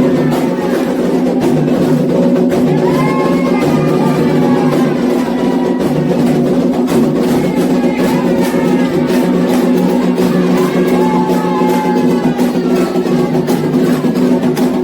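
Candomblé ritual music: hand drums (atabaques) beating a dense, steady rhythm with sharp strikes, and voices singing a chant over them.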